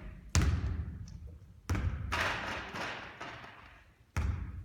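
A basketball thudding hard three times on the court or rim, each hit ringing out in the hall.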